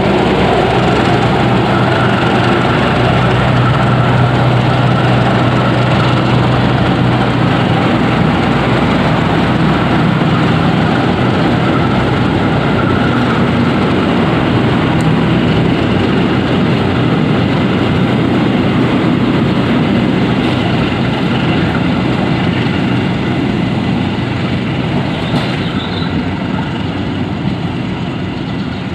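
A passenger train's coaches rolling past on the rails, a steady rumble with a low hum under it. The sound eases off over the last few seconds as the end of the train draws away.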